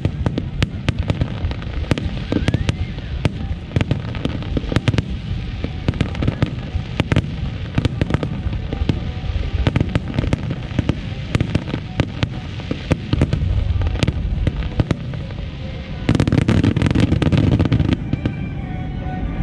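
Starmine fireworks barrage: many aerial shells bursting in quick succession, sharp cracks and booms overlapping, with a heavier, louder rumbling stretch of bursts near the end.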